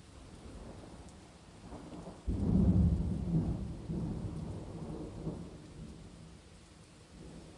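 Thunder over falling rain: about two seconds in a thunderclap breaks into a deep rumble that dies away unevenly over the next few seconds, with the rain hiss beneath it.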